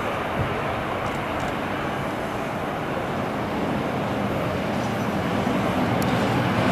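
The twin turboprop engines of an ATR 72-212A airliner on its landing at Graz, a steady rushing drone that grows louder near the end.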